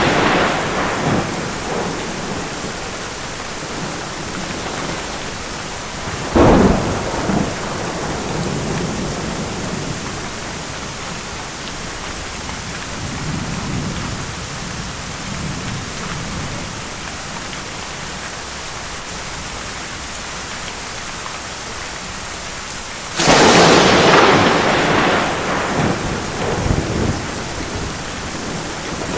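Steady heavy rain falling, with thunder. A short sharp crack comes about six seconds in, then low rumbling, and a loud thunderclap late on that rolls away over a few seconds.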